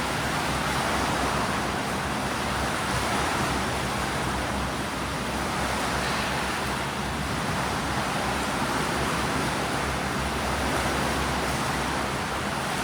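Steady rushing water noise of a swimming pool, with swimmers splashing through breaststroke drills.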